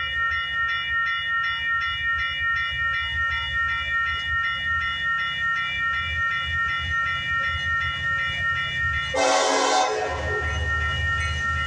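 Long Union Pacific intermodal freight train rolling past, its wheels and cars making a steady low rumble. Over it a rapid high ringing repeats evenly about three times a second, and a brief louder burst of noise comes about nine seconds in.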